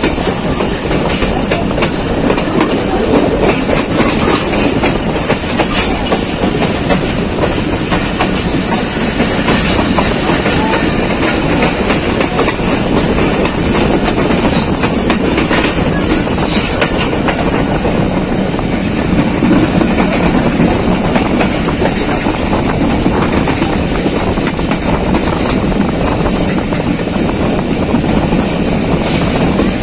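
Passenger train running and picking up speed, heard from its coach window: a steady rumble with wheels clicking over rail joints and points.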